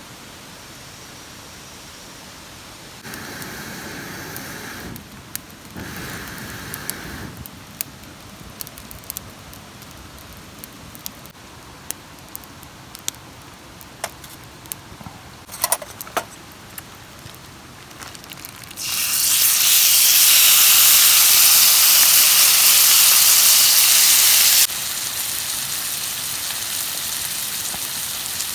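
Food sizzling on a hot iron griddle over a campfire, against steady rain with scattered crackles and small clicks. About two-thirds in, a loud, even sizzling hiss starts, then drops suddenly to a quieter sizzle near the end.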